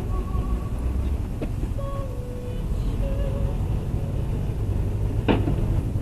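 Steady low rumble of a moving car's engine and tyres as picked up by a dashcam, with a single sharp click a little after five seconds in.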